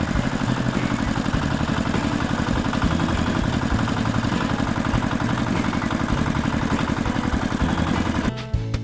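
Tractor engine running steadily with a rapid, even pulsing, then cutting off near the end.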